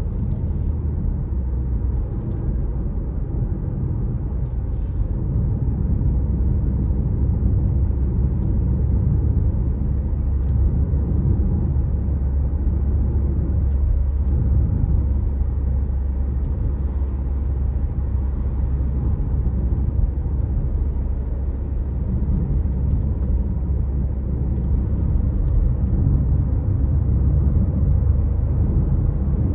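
A car driving along the road, with a steady low rumble of engine and tyre noise.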